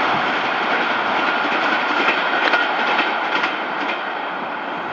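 Passenger coaches of an express train rolling away over the track and points, the wheels clacking at rail joints in a short run of clicks a couple of seconds in. The sound eases a little near the end as the train draws off.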